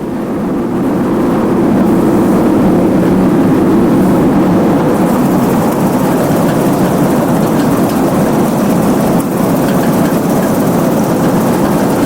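Farm machinery's diesel engine running steadily, a dense low drone that fades in over the first second or two.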